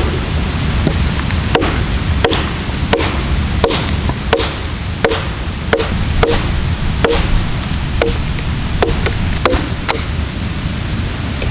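Ushkuy axe chopping into a wooden log with steady, evenly paced strokes, about one and a half blows a second, a dozen or so in all.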